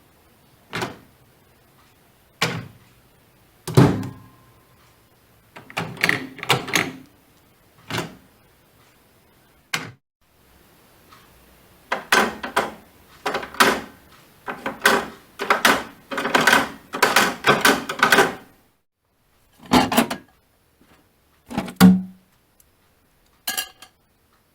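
Siemens Inno Wave microwave oven door, whose door closer needs repair, being worked open and shut: a series of sharp clicks and thunks from the door and its latch, sparse at first, then packed closely together in the middle, with a few more near the end.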